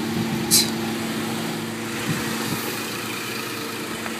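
2010 Cadillac CTS's 3.6-litre DOHC V6 idling, a steady even hum. A brief hiss about half a second in.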